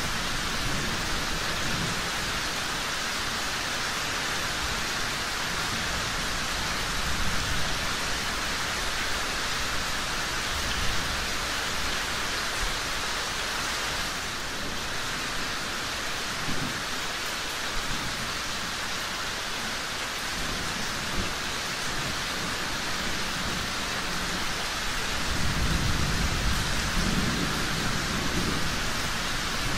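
Steady heavy rain hissing, with low rolling thunder swelling near the end and a few isolated sharp pops.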